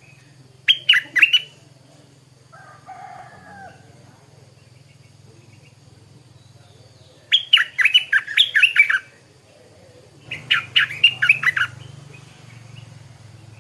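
Stripe-throated bulbul singing in three short bursts of quick notes: one just under a second in, one about halfway, and one soon after. A faint low hum runs underneath.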